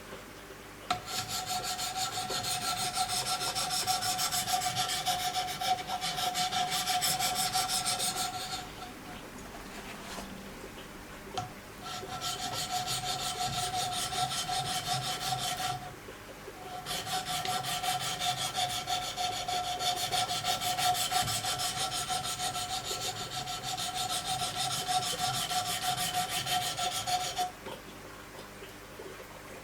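Wicked Edge diamond stones scraping along the edge of a Giant Mouse K-GMF2 fixed-blade knife in quick repeated strokes: a rasping sound in three long runs with short pauses between, a steady high tone under the scraping.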